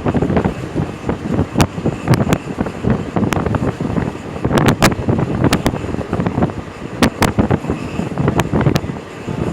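Rumbling noise of a moving vehicle, with wind buffeting the microphone and frequent sharp, irregular clacks and rattles.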